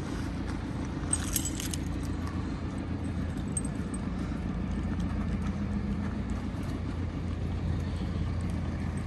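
Steady low hum of an idling motor vehicle engine, with a brief metallic jingle, as of keys, a little over a second in.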